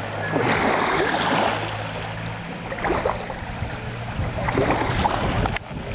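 Motorboat engine running steadily, with water noise around it; its pitch shifts slightly about halfway through.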